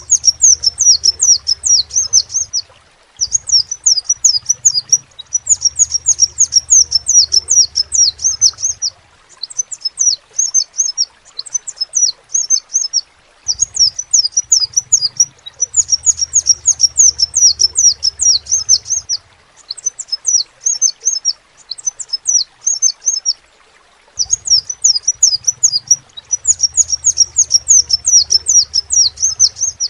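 Crimson sunbird (sepah raja) singing: rapid strings of high-pitched chirps, delivered in bursts of a few seconds with short pauses between them.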